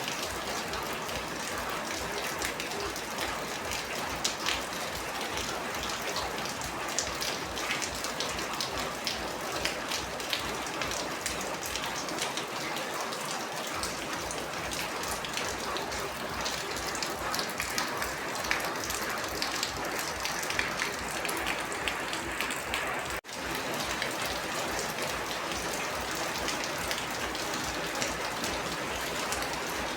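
Steady rain falling, an even hiss dense with individual drops ticking on a surface; it cuts out for an instant about two-thirds of the way through.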